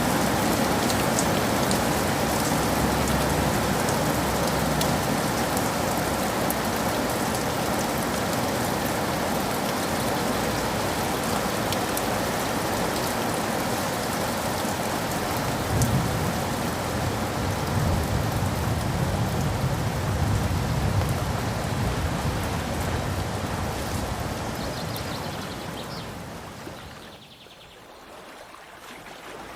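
Steady rain falling, with a low rumble of distant thunder rolling through the middle. Near the end the sound fades down briefly, then comes back.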